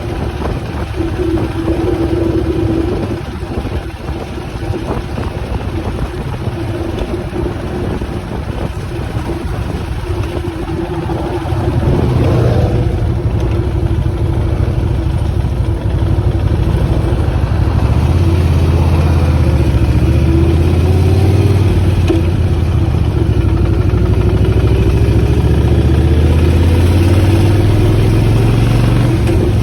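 Motorcycle on the move, engine running under wind rush. About twelve seconds in, the engine note grows louder, and later its pitch climbs slowly as the bike speeds up.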